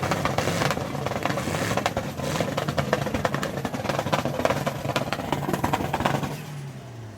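A truck engine running hard under a dense crackle, then winding down with falling pitch and fading away near the end.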